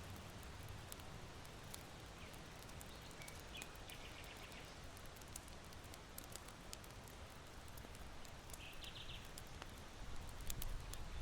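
Irori hearth charcoal crackling with small scattered pops over a steady wind hiss through bamboo. A small bird gives two short trills of quick repeated chirps, about four and nine seconds in, and a low gust of wind swells near the end.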